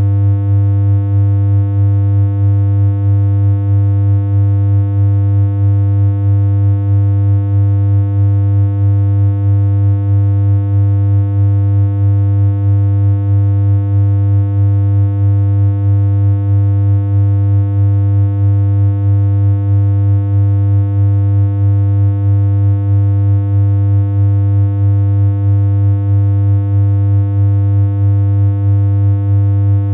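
A BeepBox-made synthesizer tone humming on one steady low pitch, with a buzzy edge from its stack of overtones. It does not change at all.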